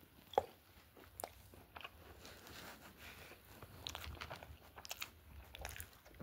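A person chewing and biting into food, a chicken wing, with scattered small clicks and crunches; one sharp click comes a little under half a second in.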